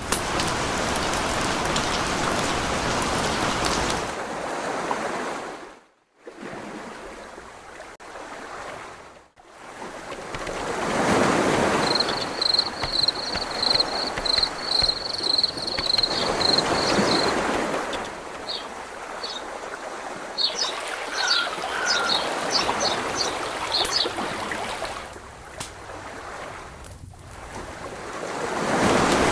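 Rushing water, cut off abruptly twice, about six and nine seconds in. Over the water, a bird gives a run of evenly repeated high notes for about five seconds, followed by scattered short chirps.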